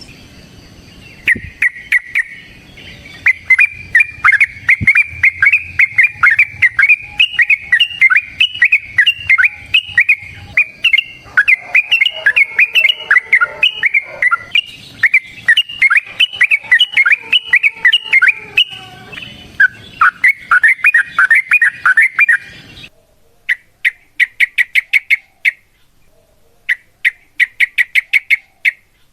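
Yellow-vented bulbul (trucukan) singing a long, loud run of quick, bubbly repeated notes in the rapid 'ropel' style used to goad other bulbuls into answering. About 23 seconds in the song stops suddenly, followed by two short bursts of very fast, evenly spaced notes.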